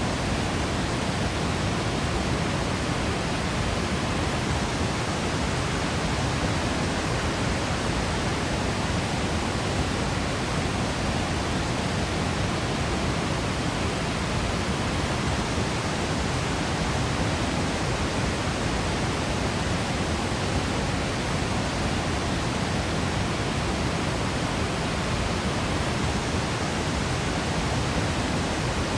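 Waterfall falling and splashing in a steady, unbroken rush of water noise, heaviest in the low range.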